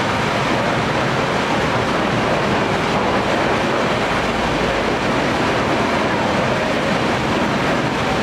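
Toy train running steadily through a corrugated-metal tunnel, heard from a passenger carriage behind the locomotive.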